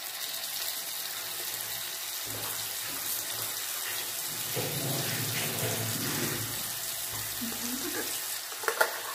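Potato cubes and onion paste frying in hot oil in a kadai: a steady sizzling hiss.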